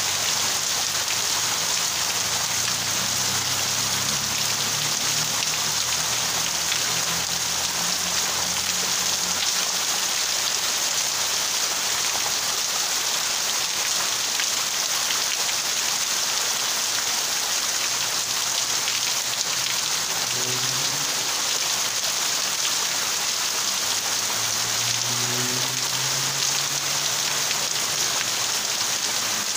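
Heavy rain pouring down steadily, a dense, even hiss of downpour on leaves and surfaces.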